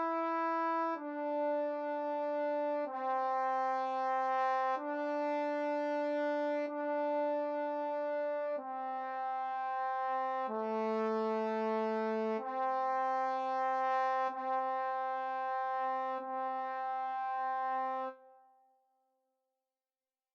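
Trombone playing a slow line of long held notes, each about two seconds, changing pitch from note to note. The last note stops about 18 seconds in and dies away.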